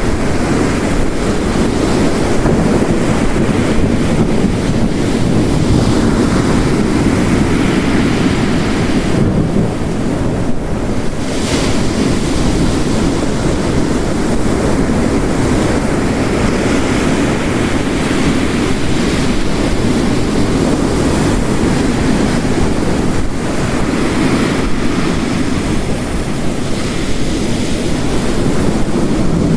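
Layered storm ambience: ocean waves breaking on the shore under steady heavy rain, a dense continuous wash of water noise that swells and eases slowly.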